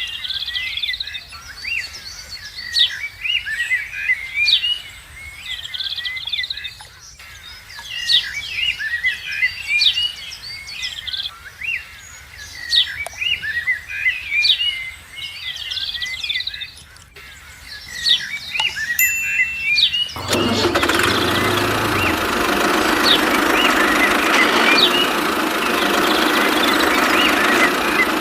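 Many small birds chirping and calling. About two-thirds of the way through, a small diesel engine driving a water pump starts abruptly and runs on steadily with a knocking diesel clatter, louder than the birds.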